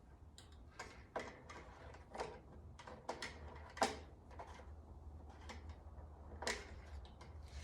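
Light, irregular clicks and taps, a dozen or so short knocks, from handling the oil bottle and filler while topping up a riding mower's engine oil, over a low steady hum.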